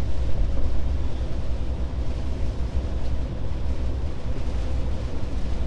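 Steady low drone of a Scania S500 truck's engine and road noise inside the cab, the engine pulling under load on an uphill climb.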